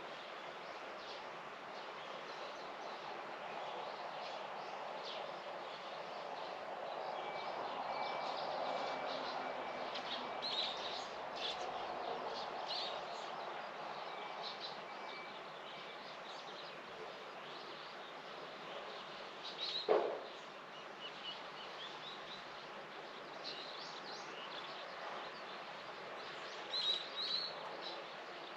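Small birds chirping now and then over a steady outdoor background hiss, with one brief louder call or knock about twenty seconds in.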